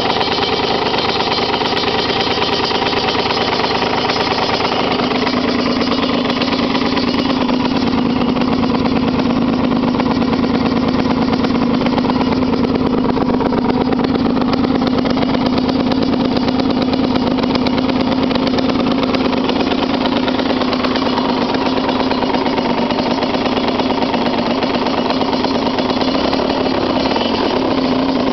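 Aprilia MX 125's single-cylinder two-stroke engine running through a full Arrow exhaust at a steady speed, with an even, unbroken engine note.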